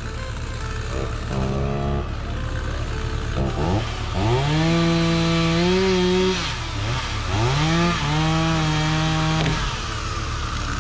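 Chainsaw revving while cutting up a fallen tree. There is a short burst about a second and a half in, then two longer runs, each rising in pitch to full throttle, held for about two seconds and then dropping back.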